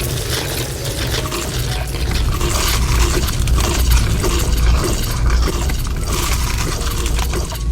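Close-miked wet eating sounds: a dense run of small crackles and squelches from chewing and slurping food, louder in the middle.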